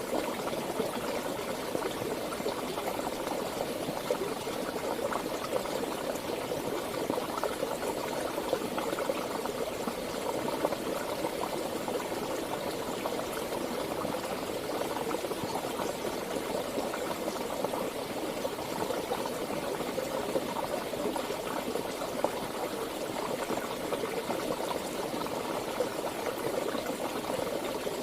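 Flowing stream or river water, a steady babbling rush that keeps on unchanged.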